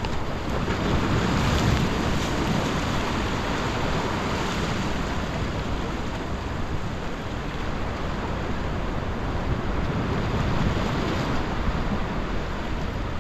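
Sea surf washing along a rock breakwater, a steady rushing that swells and eases, with wind buffeting the microphone.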